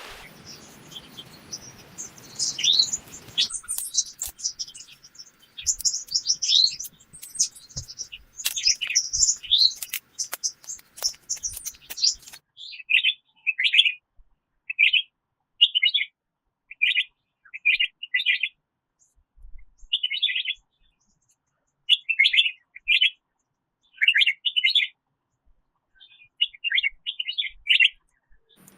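Songbirds chirping, with a few sharp clicks in the first half. From about halfway on, one bird repeats a short warbled phrase roughly once a second.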